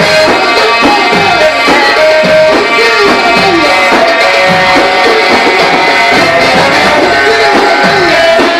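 Loud Egyptian sha'bi wedding band music: hand-drum (tabla/darbuka) rhythm under an ornamented melody that slides and wavers in pitch.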